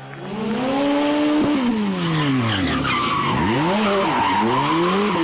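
Rally car engine revving hard, its pitch climbing and dropping steeply several times, over the noise of tyres sliding on the stage.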